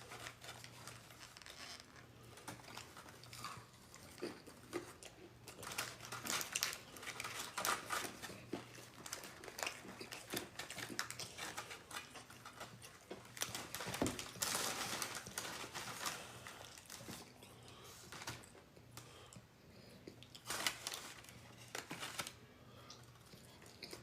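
Close-up eating noises from a Wingstop takeout meal: chewing and crunching, mixed with crinkling of paper packaging, as a run of short irregular sounds.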